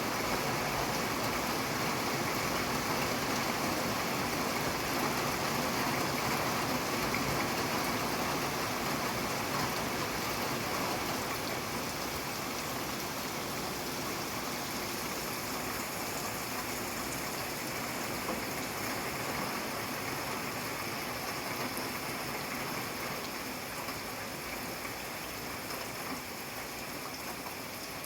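Steady rainfall, a dense even hiss of drops with faint scattered patters. The rain eases a little in loudness over the second half.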